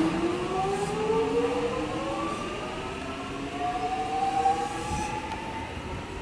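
X'Trapolis 100 electric suburban train pulling out of the platform, its traction motors giving a whine of several tones that rises steadily in pitch as it accelerates.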